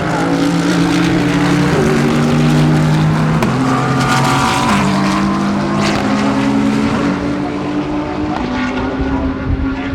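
Several GT3 race cars' engines running hard at the same time, each pitch stepping abruptly as the cars change gear.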